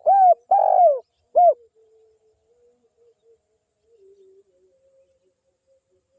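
Spotted dove cooing: a loud phrase of three arched coos in the first second and a half, the middle one longest, followed by fainter low cooing.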